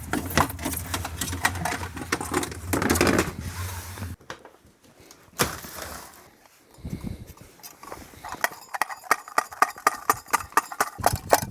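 Diesel heater running with a steady low hum and constant crackle and clicking; it is smoking heavily, which the owner suspects is a plugged exhaust. The sound cuts off suddenly about four seconds in, and a fast run of sharp clicks starts near the end.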